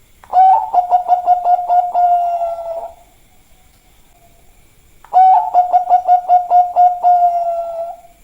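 Zebra dove (perkutut) of the Bangkok song type cooing: two phrases a couple of seconds apart, each a quick run of about five pulsing notes a second that ends in a held, slightly falling coo.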